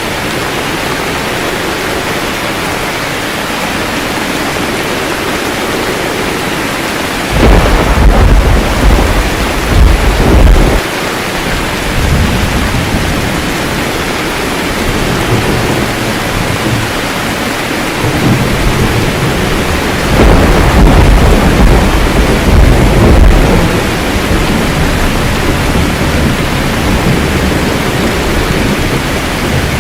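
Steady rain with two loud rolls of thunder, the first about seven seconds in and the second about twenty seconds in, with lighter rumbling between them.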